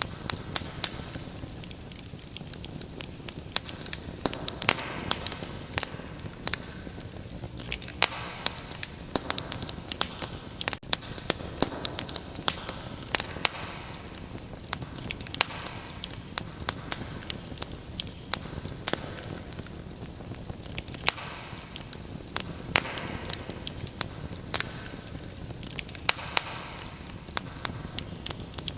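Fire crackling in a fireplace: a dense, irregular stream of sharp pops and snaps over a soft steady hiss.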